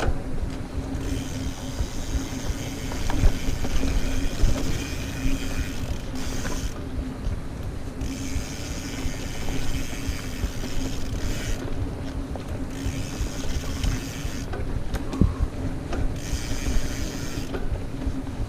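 Mountain bike riding fast over a dirt trail: the rear freehub buzzes with rapid ratchet clicking in stretches while coasting, cutting out several times when the rider pedals, over a steady rumble and knocks from the tyres and frame on the rough ground.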